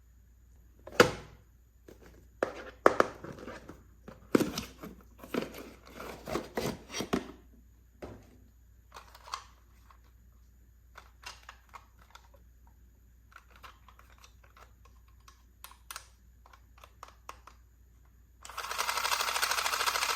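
Small plastic toy pieces being handled and set down: a run of sharp clicks and taps, busy in the first half and then sparse and light. Near the end a steady, rapid buzzing starts abruptly and is the loudest sound.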